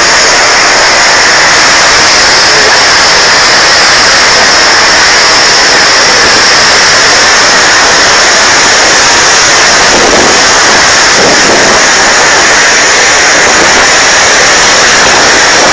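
Typhoon-strength wind and rain, a loud, steady rushing noise with no let-up.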